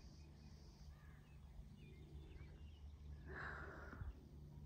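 Faint songbird chirps, with one short, harsher bird call about three seconds in, over a low steady rumble.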